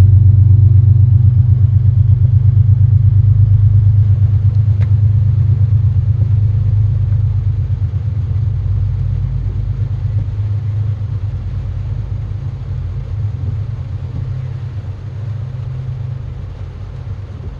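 Low diesel locomotive engine rumble with a fast, even throb, fading gradually as the train pulls away.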